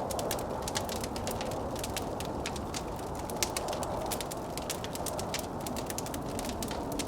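Wood fire crackling with many small pops over the steady rush of blizzard wind.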